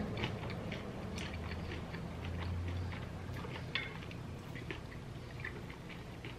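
Close-miked chewing of food with the mouth closed: a run of irregular, soft mouth clicks.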